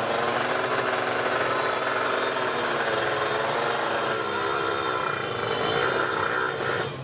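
Several drag-race motorcycle engines running at once, with pitches that waver up and down as they are blipped, over a steady hiss of noise.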